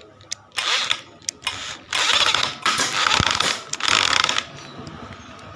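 Drill-driven foam shredder running in four short bursts, each a loud, noisy whir lasting under a second, with the last one ending a little over four seconds in.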